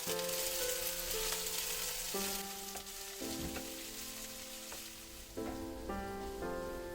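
Food frying in a hot pan, its sizzle strong at first and fading after two or three seconds, under background music of held notes.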